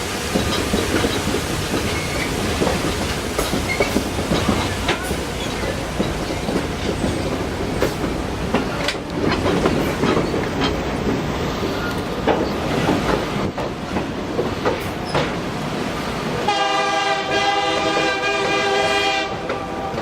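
Passenger train running on the rails, a steady rumble with the clicking of wheels over rail joints. About three-quarters of the way through, the train's horn sounds one steady blast of about three seconds.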